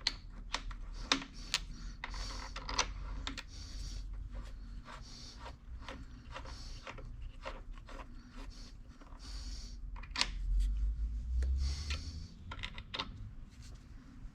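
Scattered light clicks and clinks of metal hand tools and parts being handled while a collet block is tightened and set up on the milling machine, with a low bump and rumble about ten seconds in.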